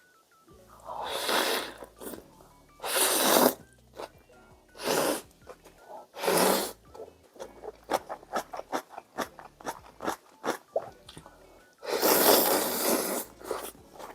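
A person slurping ramyeon noodles in five loud draws, the longest near the end, with quick wet chewing clicks in between.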